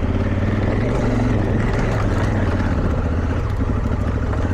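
Motorcycle engine running under load at fairly steady revs as the bike climbs a rocky trail.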